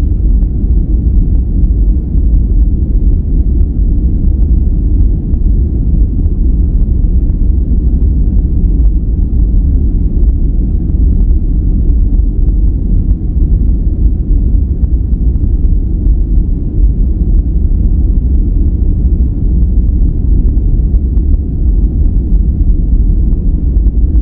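Steady relaxation noise track, deep and muffled like brown noise: a dense, unchanging low rumble with little hiss above it.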